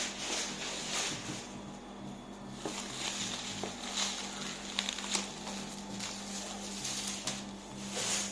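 Rustling and handling of a wrapped cardboard box, with repeated swishes and a few sharp clicks around the middle.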